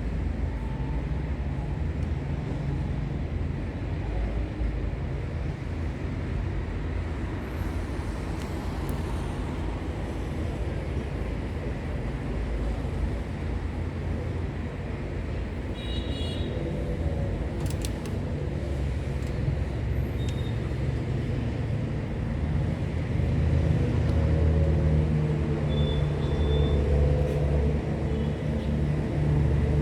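Steady low rumble of background noise, with a few short high chirps from a canary, once about halfway through and again a few seconds before the end.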